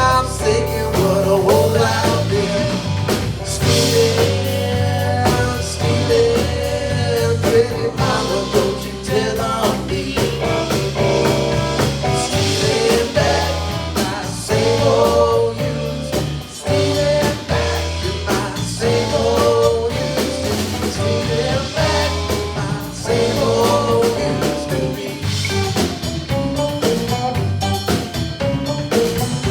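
Live band playing a blues number, with a drum kit keeping a steady beat.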